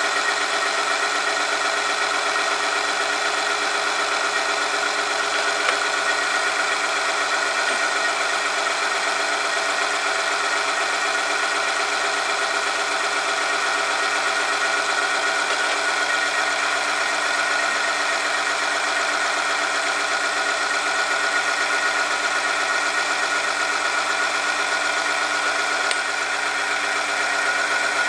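Oil-film strength test machine running steadily, its motor-driven rotating part rubbing against an oil-lubricated metal sample under load, with an even mechanical whine. The level drops slightly about two seconds before the end.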